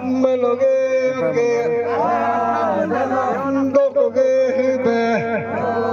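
Folk singing in a chanting style, the melody rising and falling in short phrases of about a second over a steady held tone, with a low hum underneath.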